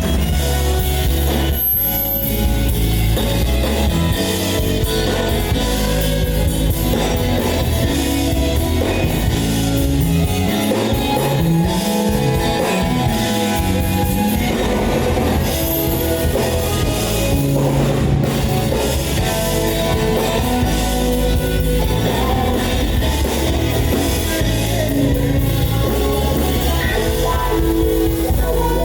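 A live band playing an R&B song with drum kit, bass and guitar, continuous and loud.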